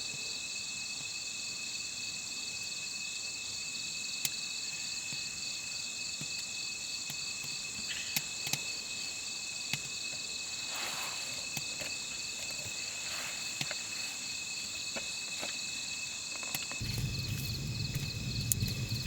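A steady chorus of insects trilling, one strand of it pulsing quickly, with scattered sharp clicks and a few brief rustles. A low rumble comes in near the end.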